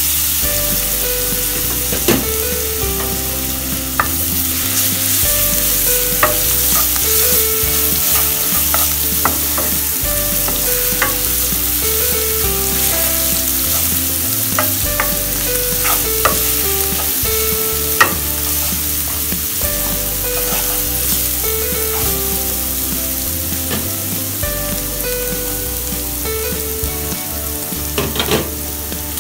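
Minced garlic sizzling steadily in hot oil in a nonstick frying pan, with a wooden spatula scraping and knocking against the pan bottom now and then as it is stirred.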